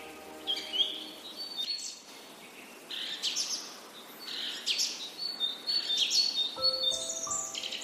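Birds chirping and trilling in quick, repeated high phrases throughout. Soft sustained music notes fade out in the first second, and new ones come in near the end.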